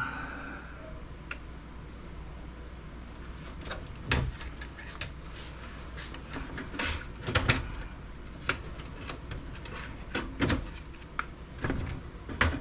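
Irregular clicks and knocks of metal and plastic computer-case parts being handled and worked loose, few at first and more frequent after about three seconds.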